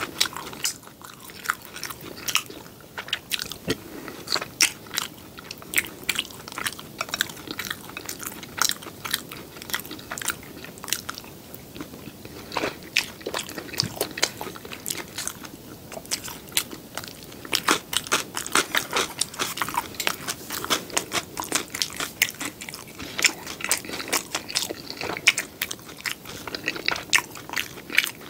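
Close-miked chewing of crispy battered sweet and sour pork (tangsuyuk): dense crunches with wet mouth clicks.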